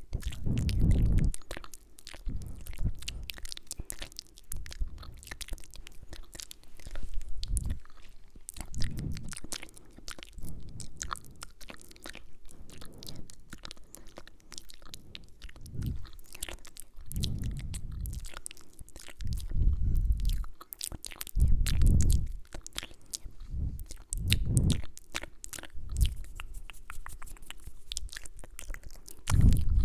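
Close-miked ASMR mouth sounds: a dense run of small wet clicks, smacks and kissing sounds. Low muffled thumps against the microphone come now and then.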